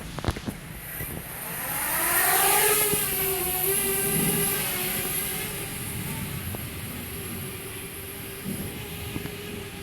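Parrot Bebop quadcopter's motors spinning up, a rising whine that settles into a steady propeller hum with a high whine on top. A few clicks come just before the spin-up.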